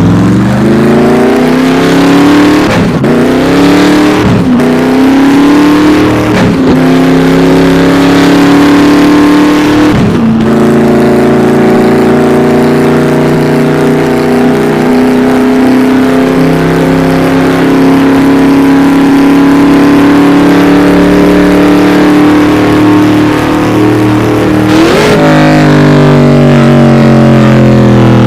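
SSC Tuatara's 5.9-litre twin-turbocharged flat-plane-crank V8 running hard and loud. Its pitch climbs and breaks sharply at each gear shift in the first ten seconds, then holds a steady high drone. Near the end it gives a quick jump and then falls.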